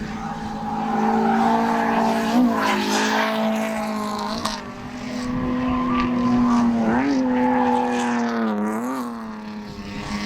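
Drift car's engine held at high revs through a long slide, its pitch steady with several brief dips and quick blips of revs, over a hiss of tyre noise.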